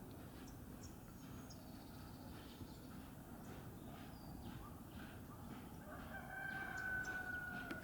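A rooster crowing faintly in the distance: one long drawn-out note, slightly falling, near the end. It sits over a steady hiss of rain with light drip ticks.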